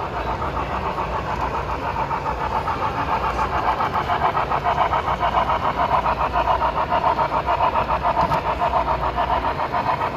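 Model locomotive's onboard sound running: a steady mechanical engine sound pulsing quickly and evenly, several beats a second, beginning abruptly.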